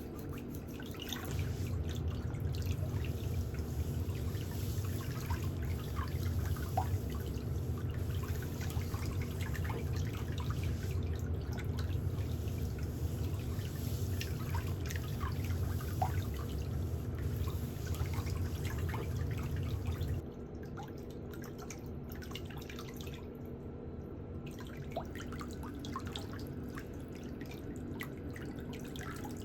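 A small electric motor hums steadily, coming on about a second in and cutting off suddenly after about twenty seconds. Scattered small ticks and clicks of pedicure tools sound throughout.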